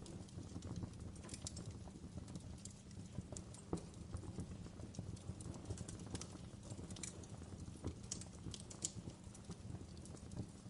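Fireplace fire crackling: irregular sharp pops and snaps over a low steady rumble of the flames.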